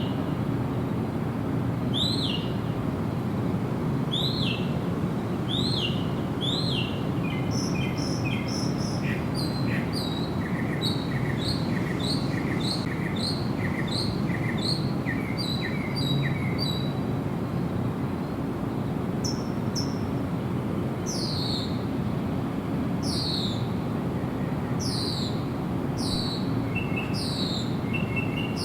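Wild songbirds calling over a steady low background noise: a down-slurred whistle repeated about every two seconds, then a quick run of short chirps, then a few falling whistles near the end.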